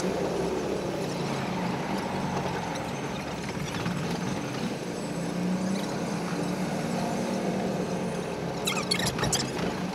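Commuter train running along the track, a steady mechanical hum with running noise. A quick cluster of sharp clicks comes near the end.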